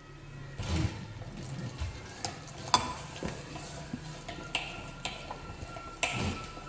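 Objects being handled by hand: irregular clicks and knocks, with two heavier thumps, about a second in and near the end.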